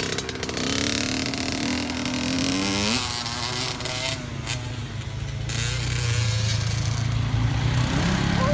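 Off-road quad or dirt-bike engine running under throttle, its pitch rising and falling, with a quick rise in revs about three seconds in.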